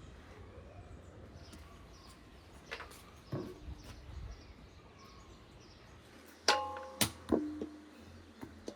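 A few light knocks, then three sharp clangs close together that ring briefly, like objects being handled and set down during outdoor cooking work.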